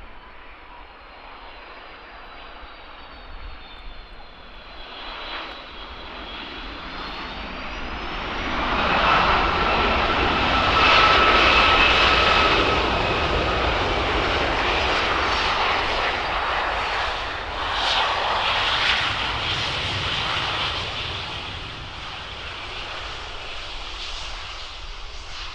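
Aircraft passing close by. Its engine noise builds over several seconds to a loud peak with a steady whine about ten seconds in, then slowly fades.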